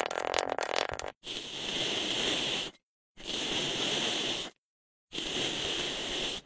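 Slime being handled for ASMR: about a second of dense crackling clicks, then three separate stretches of sticky hissing squish, each cut off abruptly by an edit.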